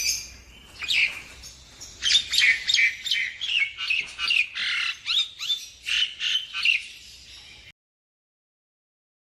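Nias hill myna calling: a single call, then a fast run of short squawking and whistled notes that swoop up and down in pitch. The sound cuts out abruptly about three-quarters of the way through.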